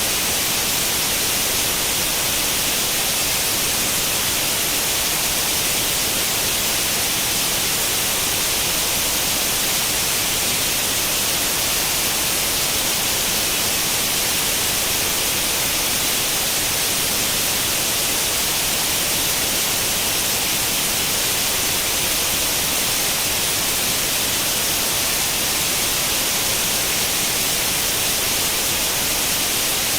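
White noise in the manner of an old tube television's static with no channel tuned: a steady, unchanging hiss, strongest in the high end.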